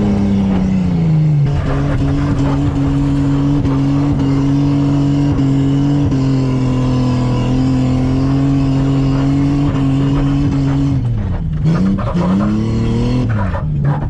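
Car engine held at steady high revs for about ten seconds, then dropping off and blipped up and down several times near the end.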